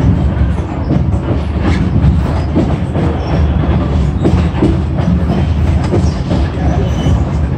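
Passenger train car rolling along the track: a steady low rumble with short clicks and knocks from the wheels at uneven intervals.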